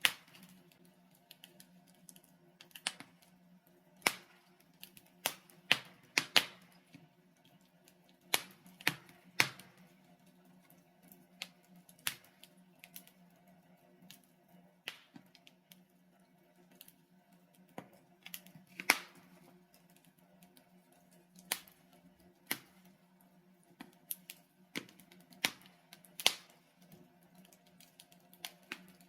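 Burning logs in a fireplace crackling, with sharp irregular pops about once a second, some much louder than others, over a faint steady low hum.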